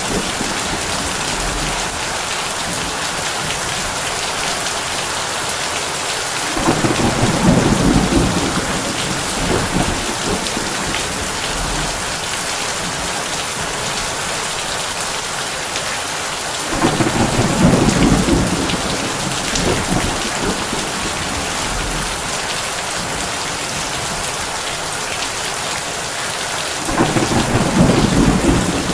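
Heavy rain drumming steadily on a tin roof. Low rolls of thunder swell three times, about ten seconds apart, each for a couple of seconds.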